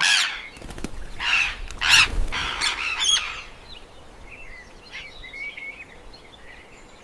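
A bird's wings flapping in several loud bursts over the first three seconds or so, followed by faint chirping.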